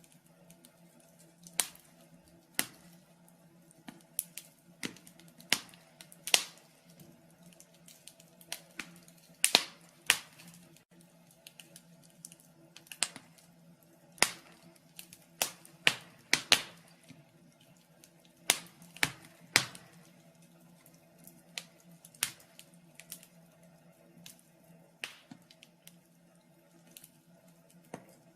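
Wood fire crackling in a fireplace: irregular sharp pops and snaps, usually one every second or so, some louder than others, over a faint steady hum.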